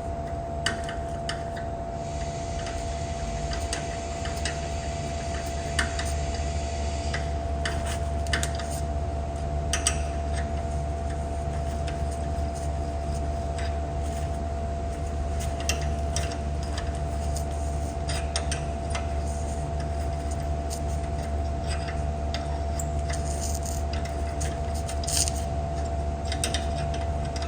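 Steady machine hum with a constant tone, overlaid by scattered light clicks and small metallic ticks.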